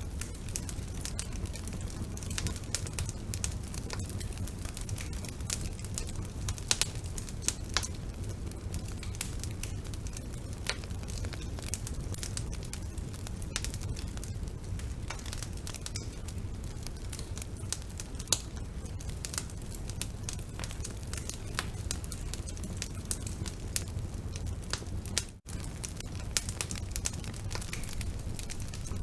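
Wood fire burning in a fireplace: a steady low rumble of flame with irregular sharp crackles and pops from the burning logs. The sound cuts out for an instant late on.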